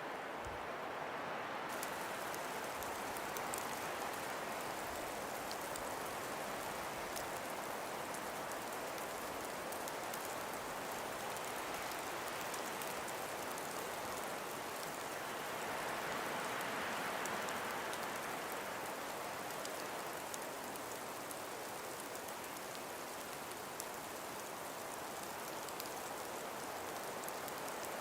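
Steady breeze moving through frost- and ice-covered forest trees, an even hiss that swells slightly past the middle. A finer, higher hiss with faint scattered ticks joins about two seconds in.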